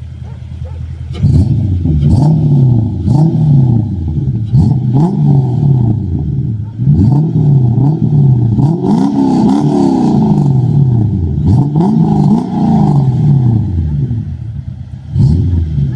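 Toyota Cresta GX71's swapped-in UZ V8 engine being revved through a custom muffler. After about a second of idle come repeated throttle blips, the pitch climbing and falling eight or nine times, then a short settle toward idle and one more blip near the end.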